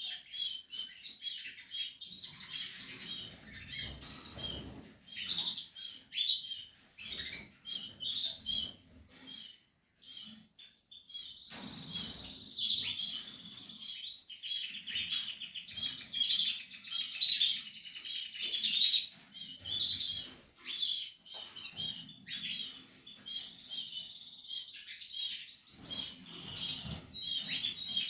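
Portuguese harlequin canaries chirping in quick repeated notes, breaking into longer warbling trills about halfway through, with low rustles and fluttering now and then.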